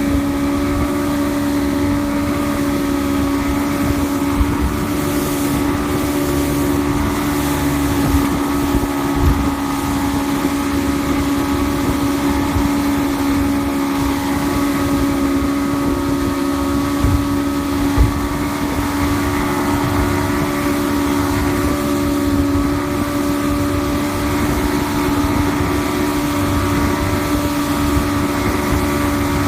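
Evinrude E-TEC 115 hp two-stroke outboard running steadily with the boat under way, with wind on the microphone and a few low thumps.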